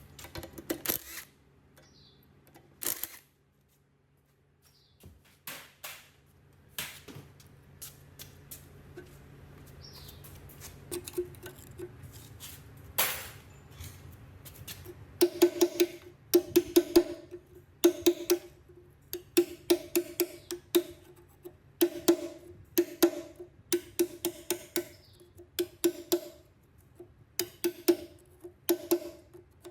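Scattered clicks and knocks, then from about halfway a run of ringing taps on a workpiece, roughly two a second.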